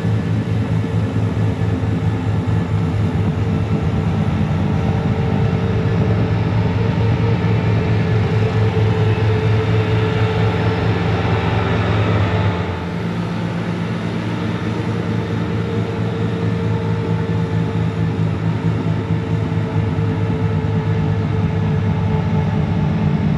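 Bobcat T66 compact track loader's diesel engine running under load, driving a snowblower attachment, with a steady hum and rush of thrown snow. About halfway through, the lowest part of the sound and the rush drop off suddenly, and the machine keeps running a little quieter.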